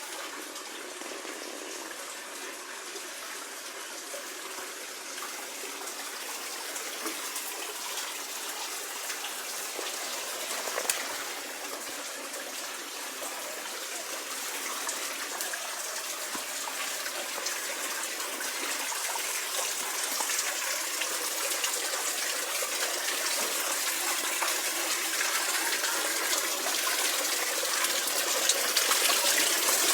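Spring water flowing and splashing in a steady rush that grows gradually louder.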